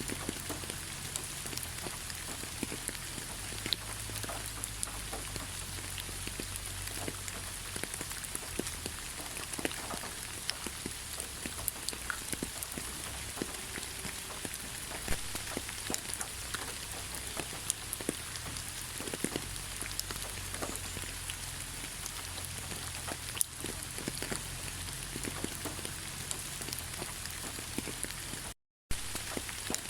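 Steady rain falling in a pine forest, with many single drops ticking close by. A split-second dropout to silence near the end.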